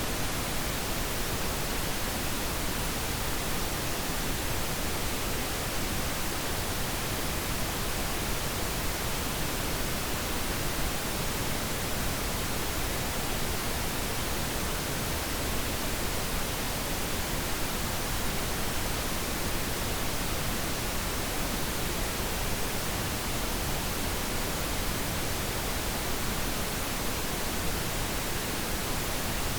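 Steady pink noise: an even, unchanging hiss across the whole range, used as a sleep sound.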